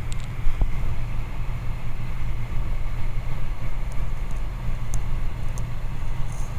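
Steady drone of a Socata TB20's six-cylinder piston engine and propeller with airflow, heard inside the cockpit in cruise.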